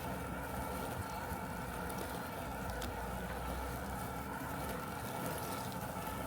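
Robotic lawn mower running steadily, its electric motor and spinning blade giving a constant mechanical hum with a thin whine over it. A few faint clicks sound now and then.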